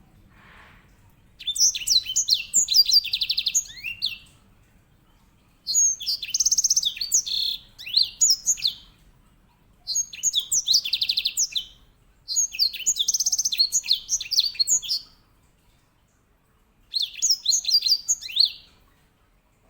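Grey singing finch (edel sanger) singing: five bursts of song, each one to three seconds long, packed with fast rolling trills and quick high notes, with short pauses between them.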